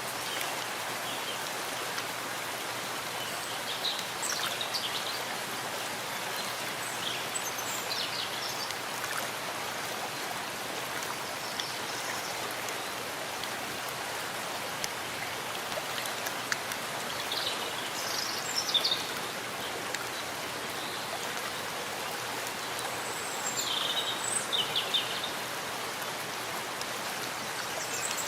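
Steady rain falling in a forest, with short high bird chirps every few seconds.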